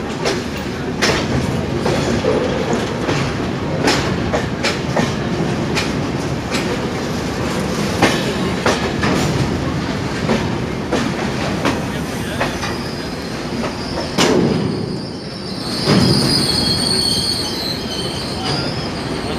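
Passenger train running at speed: the wheels knock irregularly over rail joints under a steady rumble of rolling noise. About two-thirds of the way in, a high wheel squeal sets in and keeps on to the end.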